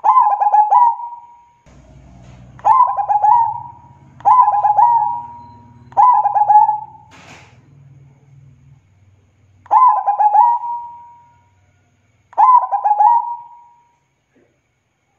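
Zebra dove (perkutut) cooing: six song phrases, each a quick stuttering run of notes ending in a drawn-out note. The first four come about every two seconds, and two more follow after a pause.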